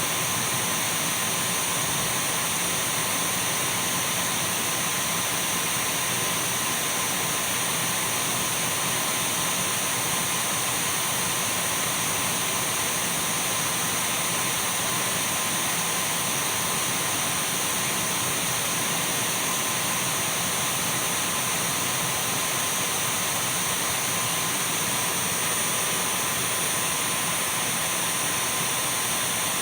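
Dyson V12 cordless stick vacuum cleaner running steadily: an even rush of air with a thin, high, constant whine.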